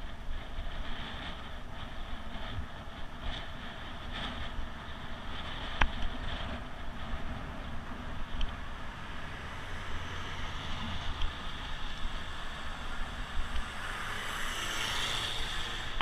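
Wind rushing over a GoPro action camera's microphone on a moving bicycle, with steady road noise beneath. A single sharp click about six seconds in, and the rush swells louder near the end.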